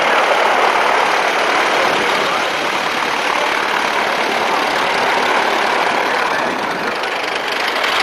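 Steady engine drone from aerobatic airplanes performing overhead, dipping slightly near the end.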